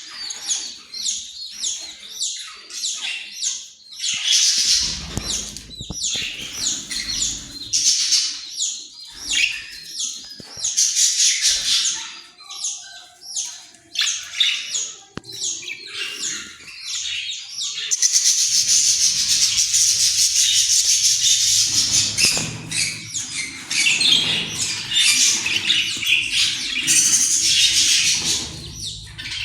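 Budgerigars chirping and chattering in quick, short calls, which thicken into continuous dense warbling chatter about two-thirds of the way through.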